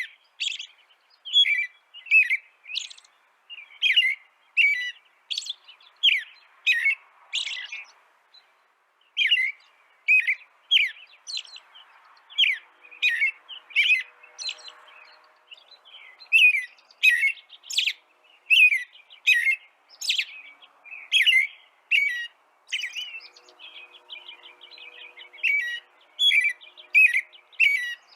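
Songbird chirping: quick runs of short, high chirps, several a second, broken by brief pauses.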